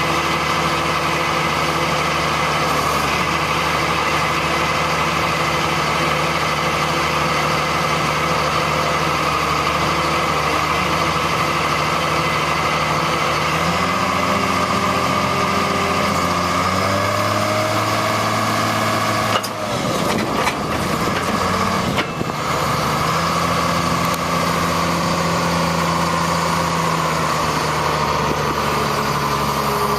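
1999 GMC digger truck's engine running steadily; about halfway through its pitch steps up for several seconds, turns rougher with a few brief dips, then settles back to the earlier steady running.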